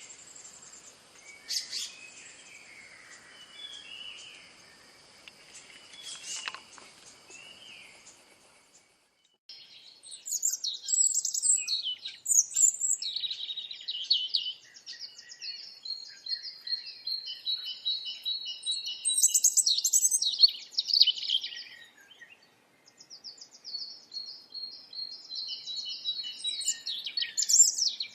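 Wild songbirds singing and chirping. At first, faint calls sound over a steady high whine. After a short break about nine seconds in, loud, close birdsong takes over, with fast repeated notes and chattering trills, and a brief pause near the end.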